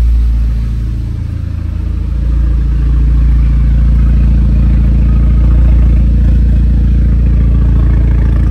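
Exhaust note of an Audi 2.0 TFSI turbo four-cylinder through an Emil aftermarket exhaust, running loud. It eases off briefly about a second in, then climbs and holds steady at higher revs.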